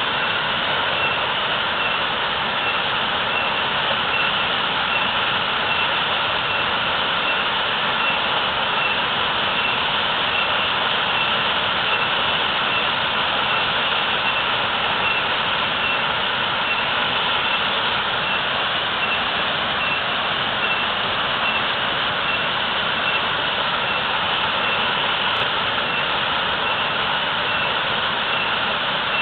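Waterfall pouring heavily: a steady, even roar of rushing water that does not change.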